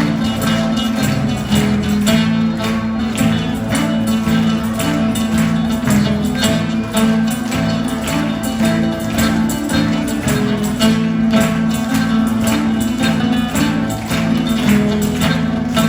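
Live instrumental music: an Italian song played on strummed acoustic guitar, with a tambourine keeping a steady, quick beat.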